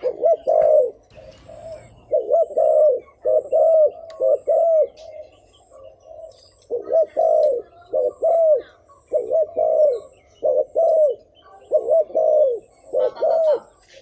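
Spotted dove cooing: short, arched coo notes repeated mostly in quick pairs, about one pair a second, with a pause of about a second and a half near the middle.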